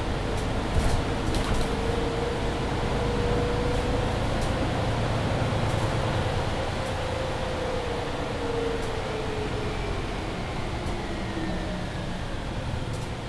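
Cabin sound of a Mercedes-Benz Citaro C2 Hybrid city bus on the move: steady engine and road noise. A whine holds its pitch, then falls in the second half as the bus eases off, with a few rattling clicks about a second in.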